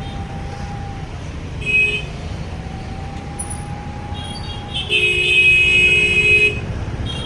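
Road traffic rumbling, with vehicle horns honking: a short honk about two seconds in and a longer, louder honk about five seconds in.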